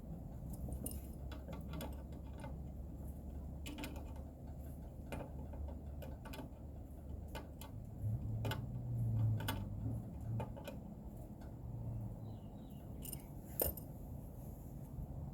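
Scattered light metallic clicks and taps of hand tools and small parts being handled during repair work, over a low steady hum that swells for a few seconds in the middle.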